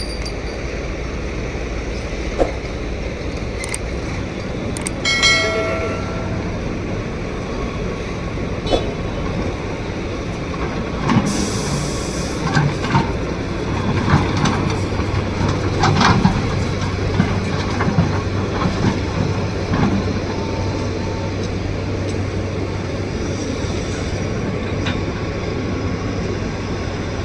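Diesel engine of a Tata Hitachi 200 excavator running steadily under working load, with a low hum. A brief pitched tone sounds about five seconds in, and a run of knocks and clanks comes in the middle.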